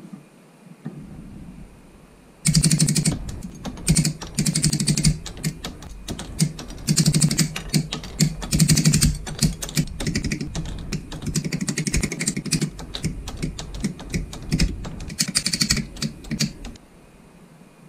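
Hard plastic model-kit parts clicking and tapping in quick runs as they are handled and fitted together, starting about two and a half seconds in and stopping shortly before the end.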